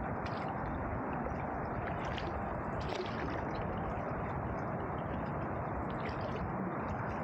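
Canoe paddling on a river: water gurgling and dripping around the paddle and hull, with a few brief splashes over a steady rush of noise.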